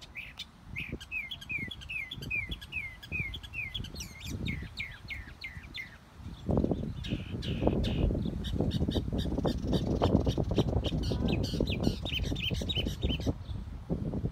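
A songbird sings a series of quick downward-slurred chirps, about three a second, over the first few seconds, and another rapid run of higher notes near the end. From about six seconds in, a louder low rumbling, crackling noise comes in under the birdsong.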